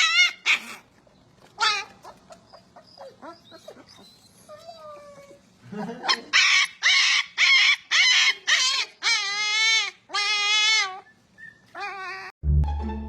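A dog whining in a series of high-pitched, wavering calls: a few short ones at the start, then a run of longer, drawn-out calls from about six seconds in.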